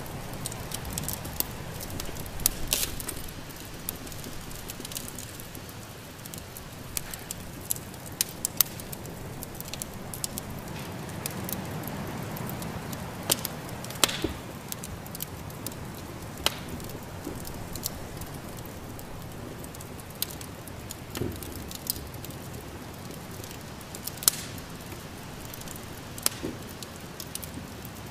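Wood fire crackling in a fireplace: irregular sharp pops and snaps, some a few seconds apart, over a steady rush.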